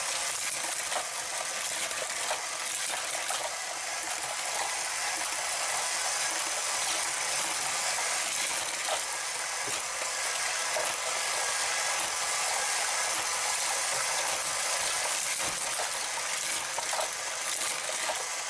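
Hot Wheels Power Tower wall-track set running, with a steady plastic gear-and-ratchet clatter from its motorized lift and small clicks of die-cast cars on the track.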